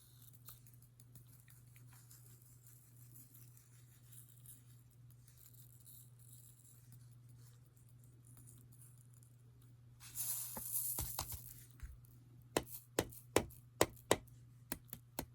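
Chunky craft glitter shaken out onto a card: a brief rattling hiss about ten seconds in, then a quick run of about eight sharp taps. A faint steady hum lies under an otherwise quiet stretch.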